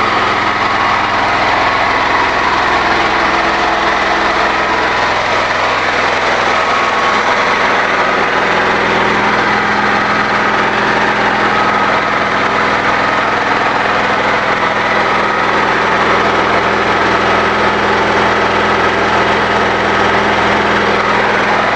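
Small engine-generator running steadily on wood gas under load, a continuous engine drone, with a slight change in its low end about eight seconds in.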